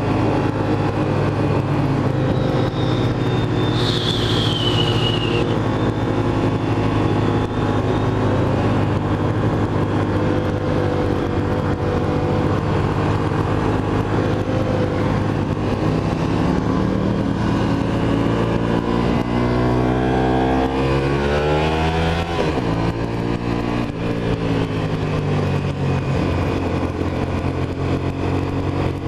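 Motorcycle engine running steadily at road speed. Its pitch drops and then climbs again about twenty seconds in, and there is a brief high falling whine about four seconds in.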